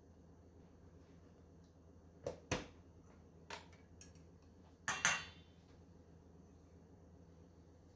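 Kitchen utensils clinking and knocking: two knocks a little over two seconds in, two lighter taps, then a louder clatter with a short metallic ring about five seconds in.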